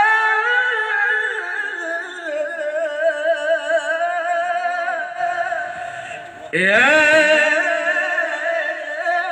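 Sholawat sung by a man's voice in long, held melismatic phrases with wavering vibrato-like ornaments. About two-thirds in, the line dips and a new phrase enters with a rising swoop, loud again.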